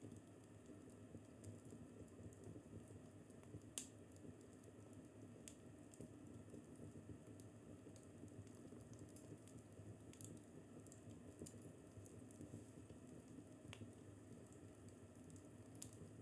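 Wood fire in a fireplace crackling faintly: a low, steady hiss with scattered sharp pops, the loudest about four seconds in.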